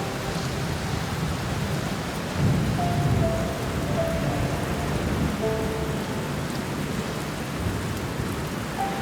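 Steady rain falling, with a low rumble of thunder swelling about two and a half seconds in. A few slow, sparse piano notes sound softly over it.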